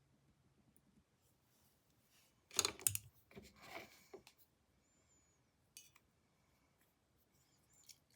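Paintbrush tapping and scratching while applying paint: a quick run of dry clicks and scrapes about two and a half seconds in, then a few fainter taps.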